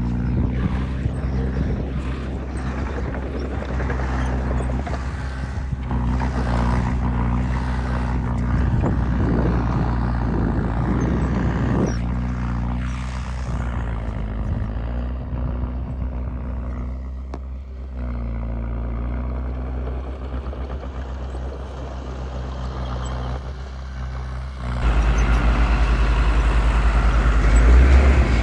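Diesel engine of a small crawler bulldozer running and working, its sound rising and falling with the load. About 25 s in, a louder, deeper engine sound comes in.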